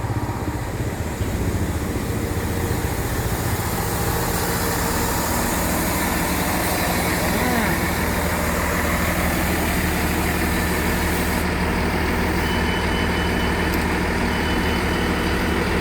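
Diesel train engine running steadily. A high, intermittent beeping starts near the end.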